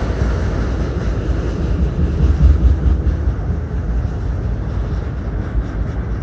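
Autorack freight cars rolling past close by: a steady rumble of steel wheels on rail, swelling briefly about two and a half seconds in.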